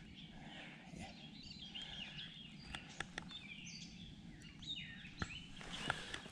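Songbirds singing, short chirping phrases over a faint steady outdoor hush, with a few light clicks.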